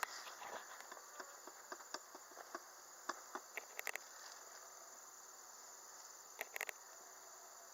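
Faint steady buzzing of honeybees around an opened hive, with scattered light clicks and taps, a few in quick clusters.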